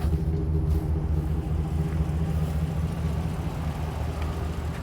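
A 2013 Chevrolet Silverado 2500HD's 6.0-litre gasoline V8 idling with a steady, even low rumble.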